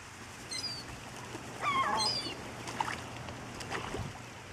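Birds calling: short, high chirps several times, and a louder wavering call about halfway through, over a low steady hum.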